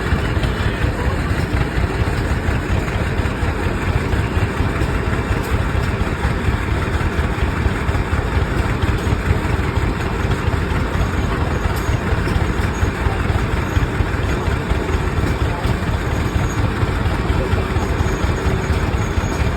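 Antique Rumely OilPull tractor engines running steadily with an even, pulsing exhaust beat, set up to power a sawmill.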